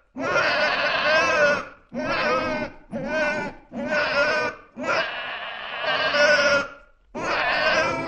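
Newborn baby crying: about six wailing cries, each one to two seconds long, with short breaks for breath between them.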